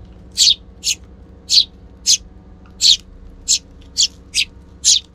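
Eurasian tree sparrow chirping: a run of short, sharp, high chirps, about two a second.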